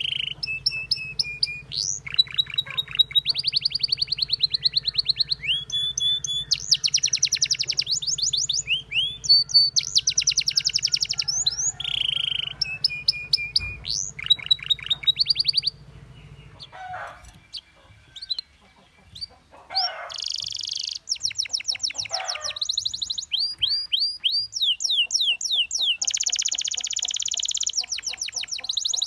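Canary singing: fast trills of rapidly repeated, downward-sweeping high notes, one phrase after another. The song breaks off briefly just past halfway, then resumes.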